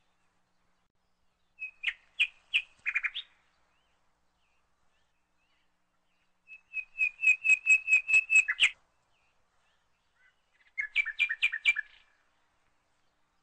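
A bird chirping in three short bursts of quickly repeated high notes: one about two seconds in, a longer run that speeds up near the middle, and a last burst near the end. No sizzling from the pan is heard.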